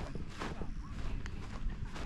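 A few soft footsteps, spaced irregularly, over a light steady background hiss.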